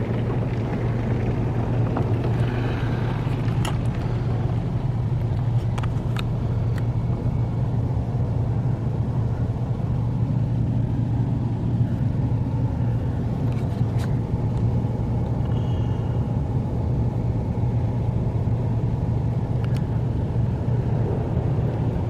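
Automatic car wash heard from inside the car's cabin during the foam stage: a steady low hum with the hiss of foam and water spraying onto the car, and a few scattered light ticks.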